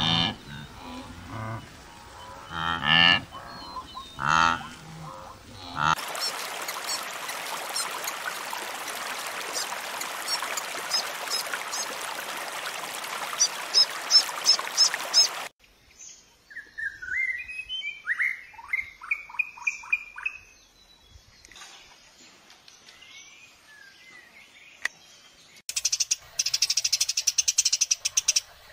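A run of separate animal recordings: a few low, pitched calls first; then a dense chorus with rapid clicking calls for about ten seconds; then a bird singing a series of quick falling and rising whistles; and near the end a fast, high pulsing trill.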